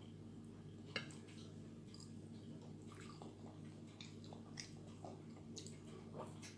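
A toddler chewing and biting food, with faint mouth clicks and smacks over a steady low hum. A sharper click comes about a second in.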